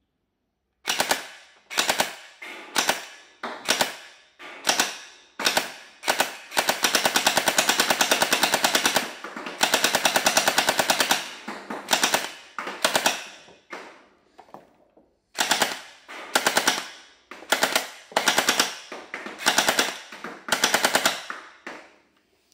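Battery-powered Gatling-style hand gel blaster firing. It fires in many short bursts of rapid, evenly spaced shots, with two longer runs of about two seconds each near the middle.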